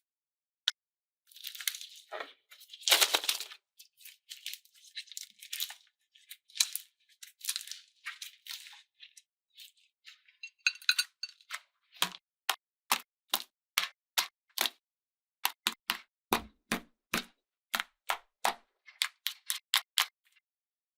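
Handling noises from small toys and craft materials: crackly scraping and rustling, then a string of separate sharp clicks and taps, several a second, through the second half.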